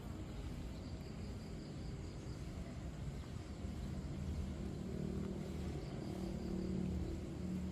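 A vehicle engine running nearby, its rumble with a steady pitched hum growing louder from about four seconds in, with faint insect chirping high above it.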